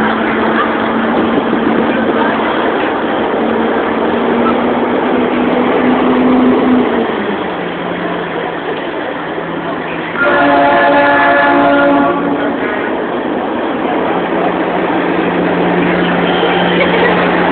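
Trucks rumbling past in a parade; about ten seconds in, one blasts a multi-note air horn for about two seconds.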